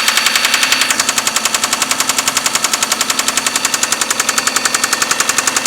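Mitsubishi 6A13 V6 engine idling with a loud, fast, evenly spaced knock, several knocks a second, a little quieter after about a second. The owner calls it a nasty knock, strongest between the cylinder heads, and cannot find its cause.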